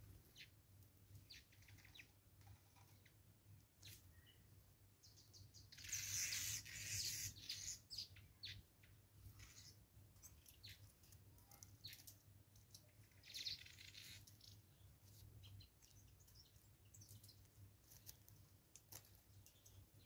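Faint wild bird chirps and short calls with soft ticks. There are two louder hissing bursts: one about six seconds in lasting nearly two seconds, and a shorter one near fourteen seconds.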